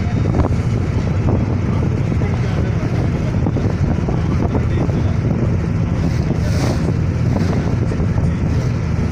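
Passenger ferry's engine running steadily under way, a constant low drone, with wind buffeting the microphone.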